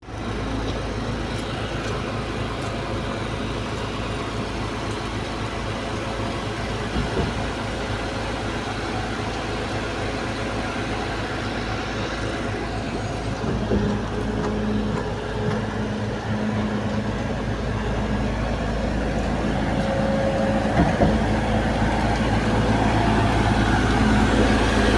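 A concrete pump truck's engine and pump run steadily with a low rumble, with a few scattered knocks. The sound grows a little louder over the last several seconds.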